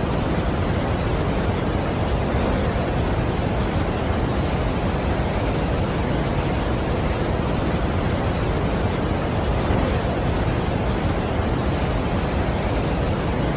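Steady rushing of a large waterfall, a loud even noise heaviest in the low end.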